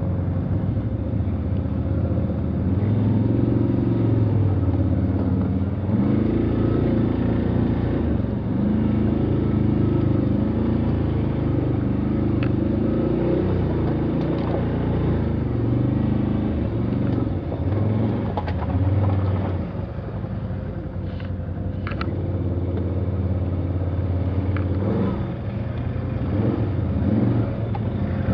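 Motor vehicle engine running under way, its pitch rising and falling as the revs change, with a few short knocks.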